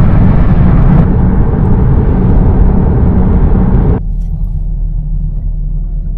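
Loud road and wind noise of a moving car, heard from inside. About four seconds in it drops abruptly to a lower, steady rumble.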